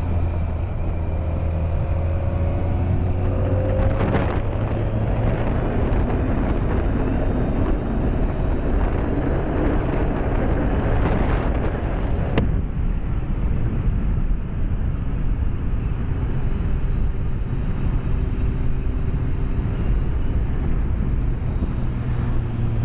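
BMW K1200S's inline-four engine running under way, mixed with wind rush, heard through a microphone inside the rider's helmet. The engine note rises and falls in the first few seconds, and a few sharp clicks cut in around the middle.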